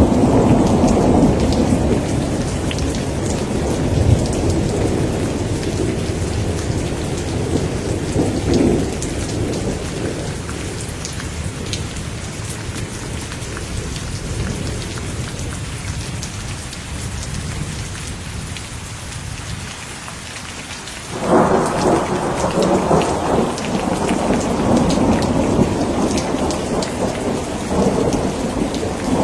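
Steady rain with scattered drop ticks and rolling thunder. A rumble dies away slowly over the first twenty seconds, then a new peal of thunder breaks in suddenly about 21 seconds in and keeps rumbling.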